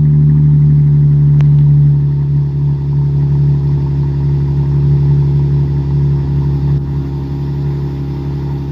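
Dodge Charger AWD with the exhaust resonators deleted, idling steadily just after a cold start. The engine speed has settled after the start-up flare.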